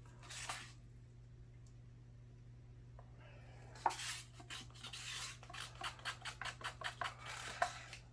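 Short scraping sounds from handling acrylic paint and pouring supplies: one about half a second in, then from about four seconds a quick run of scrapes, about four a second.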